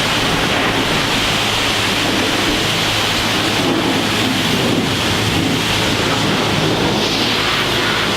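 High-pressure water spraying from a self-serve car-wash wand onto a car, a steady hiss.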